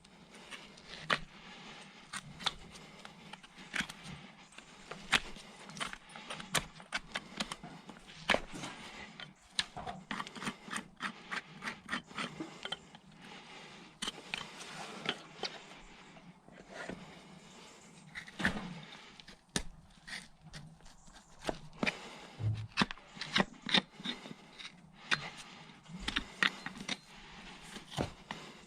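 Farrier's hand tools working on a horse's hoof: an irregular run of sharp scrapes and clicks, steel cutting and scraping at hoof horn.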